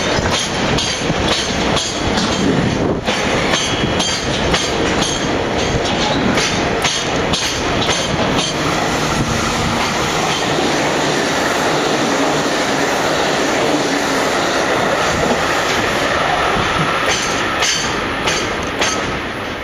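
Freight train passing close by: a steady loud rumble of the wagons, with wheels clacking over rail joints, most densely in the first half, easing slightly near the end.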